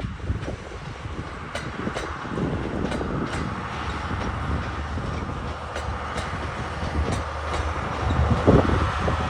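JR East E001 series Train Suite Shiki-shima running past, with a steady rumble and hum and scattered sharp clicks of its wheels over rail joints.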